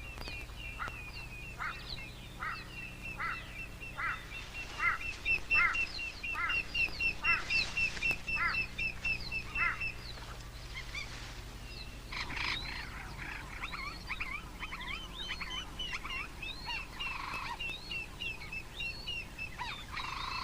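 Wild birds calling: a rapid run of short high notes, with a falling call repeated about every 0.7 s. About twelve seconds in, this changes to a busier mix of varied chirps and calls.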